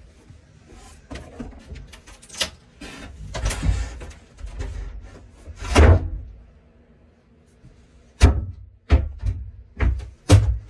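Knocks and thumps of carpentry work in a small closet, with a noisy scraping stretch and one heavy thump about six seconds in, then a run of sharp knocks roughly every half second to second near the end.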